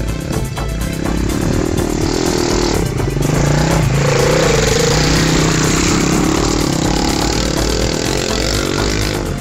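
Pit bike engine running, with background music under it.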